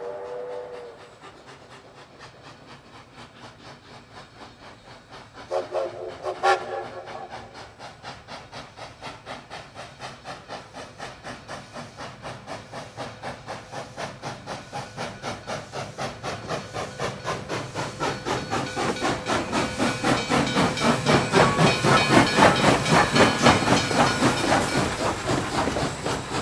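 Steam locomotive approaching with fast, even exhaust chuffs that grow steadily louder for about twenty seconds, then ease slightly near the end. A whistle sounds briefly about six seconds in, and the tail of an earlier whistle fades out in the first second.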